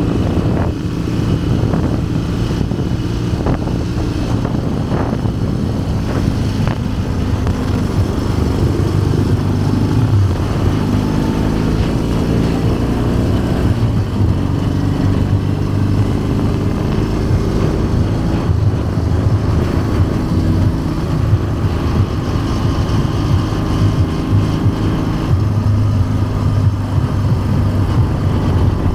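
1964 Dnepr motorcycle's flat-twin engine running steadily, its pitch shifting slightly now and then. A few sharp clicks or knocks come in the first several seconds.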